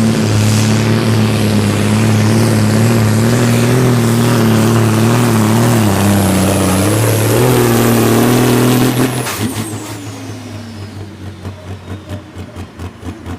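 Super Sport class pulling tractor's diesel engine running flat out under load, its pitch wavering, then shut off about nine seconds in. It winds down with a high whistle falling away and settles into a slow, pulsing run.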